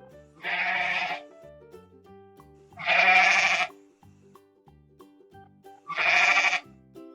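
A sheep bleating three times, about three seconds apart, each bleat under a second long, over light children's background music.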